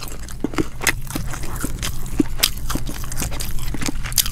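Close-miked chewing of deep-fried striped bass: irregular crunchy clicks and mouth smacks, several a second, over a low steady hum.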